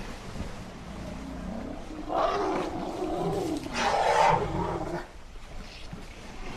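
Elephant calling: a rough, wavering call about two seconds in, breaking into a second, louder call that ends about five seconds in, over a steady background hiss.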